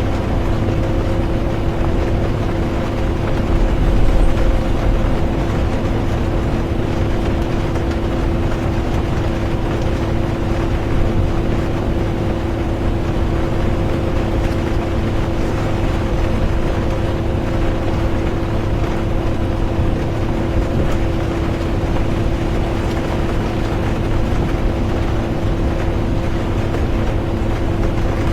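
Bus interior while driving: a steady low rumble of engine and road with a constant hum and an even hiss of rain, and a brief heavier low rumble about four seconds in.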